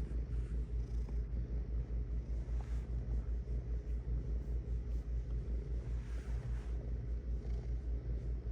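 Domestic cat purring steadily: a continuous low, rapidly pulsing rumble.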